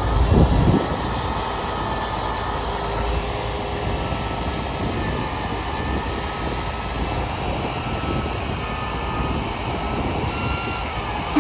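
Sterling L9500 crane truck's diesel engine running steadily, with a faint whine that drifts slightly in pitch. The sound swells briefly in the first second.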